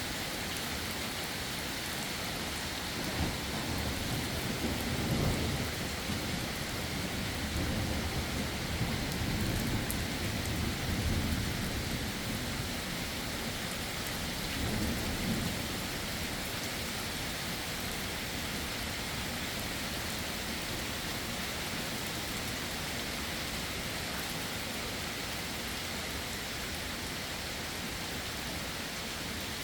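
Heavy rain falling steadily, with thunder rolling and rumbling low for several seconds, starting a few seconds in and dying away before the halfway point.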